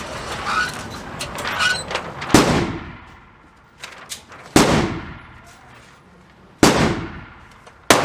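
Four single gunshots from a firearm, spaced about two seconds apart, each with a short ringing tail.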